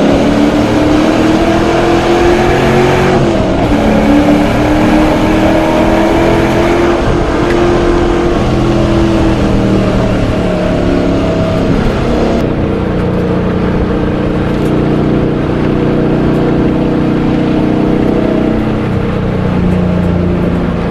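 LS-family V8 race car engine running hard on track, its pitch climbing under acceleration, dropping at a gear shift about three seconds in and climbing again, then settling lower and steadier after about twelve seconds as the car comes off full throttle.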